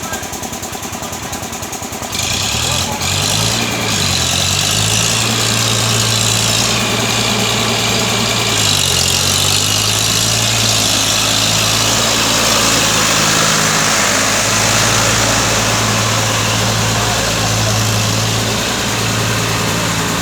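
Eicher 560 tractor's diesel engine running while working a cultivator; it grows louder about two seconds in, then runs steadily, with brief dips in engine speed a few seconds in and again near nine seconds.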